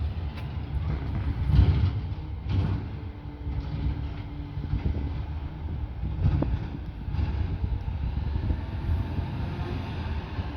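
Peterbilt 520 McNeilus ZR garbage truck's engine running steadily, with a few clanks and knocks.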